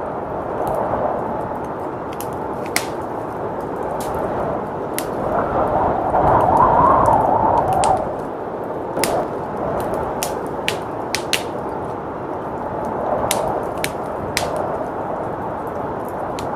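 Fireplace crackling with frequent sharp pops and snaps over a steady blizzard wind, which swells in a gust about six seconds in.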